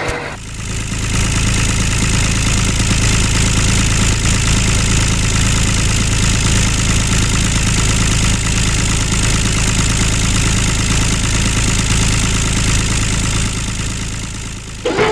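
A motor running steadily with an even, fast-pulsing hum, starting abruptly and fading out near the end.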